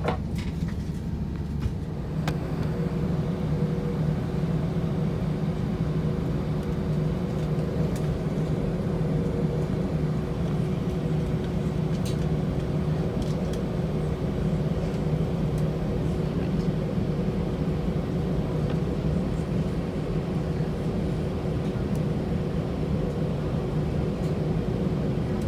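Airbus A320 cabin noise while the jet taxis: a steady low rumble of the engines and airframe, with a faint steady hum over it.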